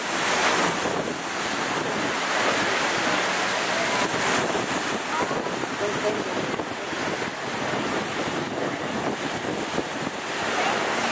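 Steady rushing of wind buffeting the microphone, with no distinct engine note.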